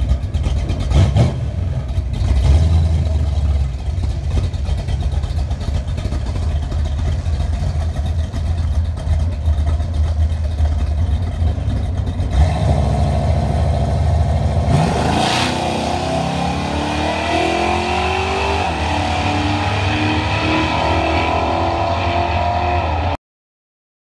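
Plymouth Duster's 360 Magnum V8 idling at the drag strip starting line. About fifteen seconds in it launches: the revs climb sharply, break at a gear change a few seconds later, and climb again as the car pulls away down the track. The sound cuts off just before the end.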